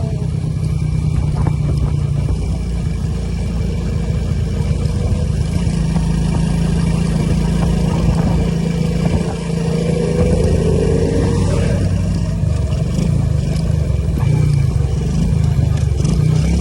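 Motorcycle engine running steadily while riding, with a brief dip in loudness about nine seconds in.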